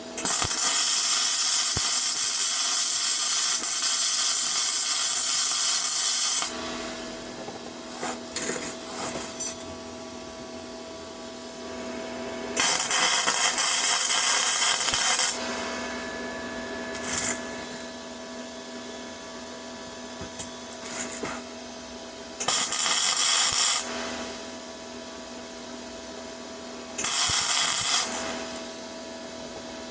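Flux-core arc welding with a Parkside PMSG 200 A1 welder: four bursts of arc crackle, the first about six seconds long and the rest shorter, stopping and starting as the wire is laid in short runs. A steady hum carries on between the bursts.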